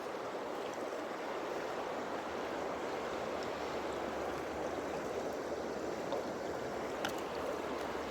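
Creek water running steadily, with a faint click about seven seconds in.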